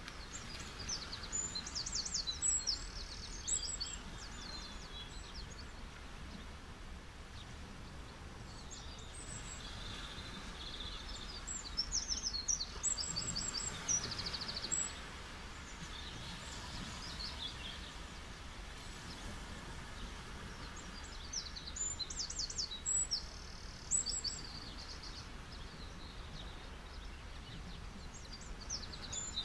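Steady soft wash of beach waves, with a songbird singing quick high chirping, trilled phrases a few seconds long about every ten seconds.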